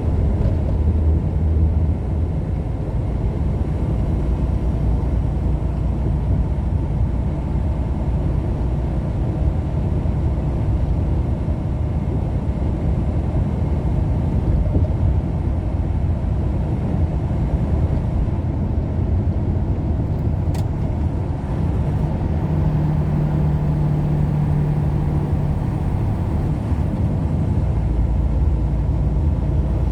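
Steady low rumble of a car driving at road speed, engine and tyre noise with a low hum that grows stronger for a few seconds past the middle. A single brief click comes about two-thirds of the way through.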